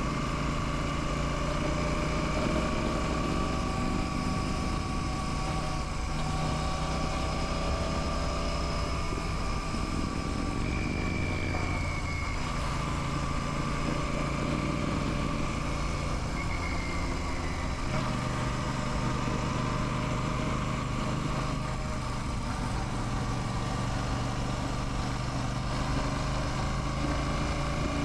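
Royal Enfield Classic 650's parallel-twin engine and exhaust running steadily under way, its note shifting a couple of times with changes in engine speed.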